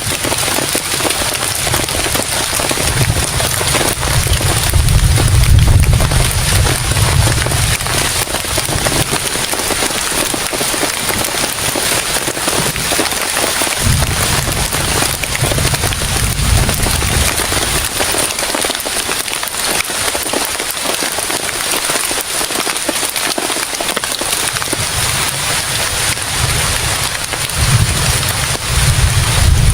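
Heavy rain falling steadily, a dense even patter. Three times a deep low rumble swells up and dies away, near the start, about halfway through and again near the end.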